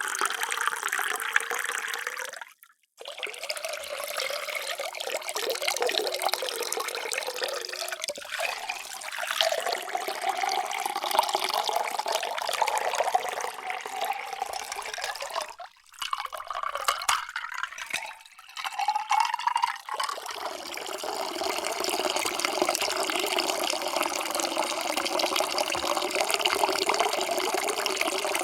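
Water pouring into a drinking vessel in several separate pours, with short breaks about three seconds in and again around sixteen to nineteen seconds. In some pours the tone rises as the vessel fills.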